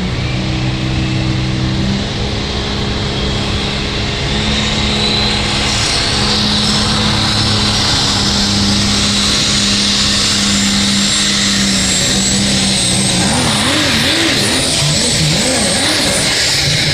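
Diesel pulling truck's engine running hard under load, with a high turbo whistle that climbs steadily in pitch through most of the pass and falls away near the end. In the last few seconds the engine's pitch wavers rapidly up and down.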